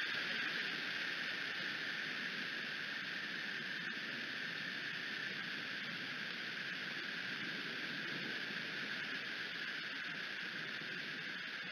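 Steady rain falling around the eagle nest camera, a constant hiss with no distinct events.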